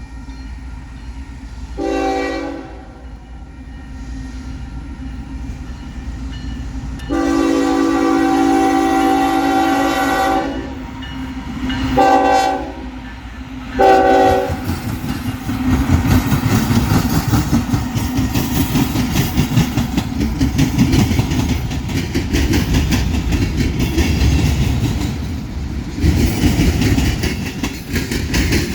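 A train's multi-chime locomotive horn sounds four blasts: a short one about two seconds in, a long one, then two short ones. The train then passes close by with a loud steady rumble and the rapid clickety-clack of wheels over rail joints.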